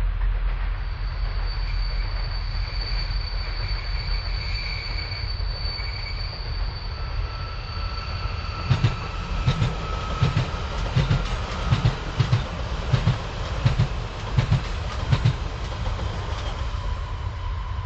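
Trains passing each other: a freight train of wagons rolls by with a steady rumble and a thin high wheel squeal. From about nine seconds in, two coupled Koleje Śląskie Pesa Elf electric multiple units pass on the nearer track, their wheels clacking over rail joints in a rhythmic run of about a dozen thumps lasting some six seconds.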